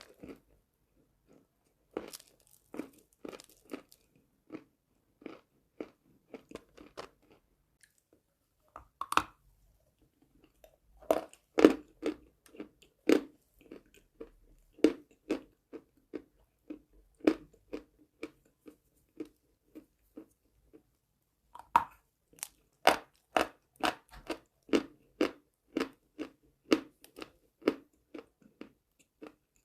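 A person biting into pieces of chalk and chewing them close to the microphone: hard crunches at about one to two a second, with a sharper crack of a fresh bite twice, each followed by a run of crunchy chewing.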